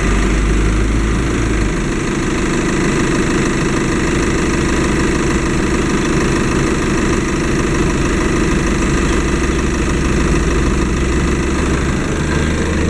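2.0 TDI CFF four-cylinder common-rail diesel engine idling steadily, with a light diesel clatter.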